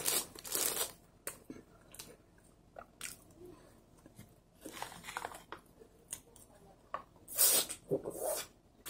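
Close-up eating sounds: soft red bean bread being bitten and chewed with wet mouth noises, coming in short bursts with quiet gaps. Near the end, louder sipping and swallowing of soy milk from a pouch.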